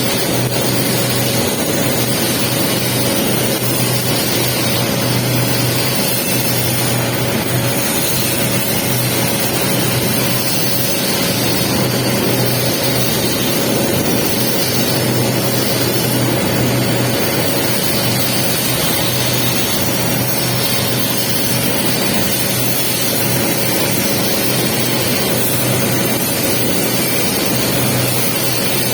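Pipe welding arc on the capping pass of a 6G pipe weld: a steady, unbroken crackling hiss, with a low hum underneath.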